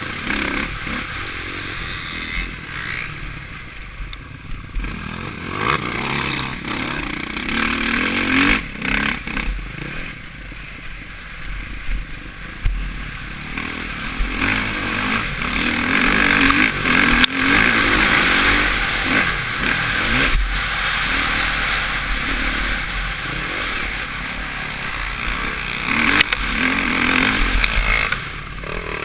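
Suzuki RM-Z450 motocross bike's four-stroke single-cylinder engine revving up and down as it is ridden, with clattering from the bike over the track. It gets louder about halfway through.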